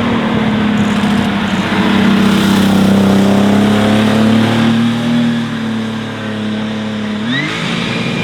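Air-cooled flat-six engine of a Porsche 964-based Kalmar 7-97 restomod running at fairly steady revs through its custom exhaust, then revving up sharply near the end.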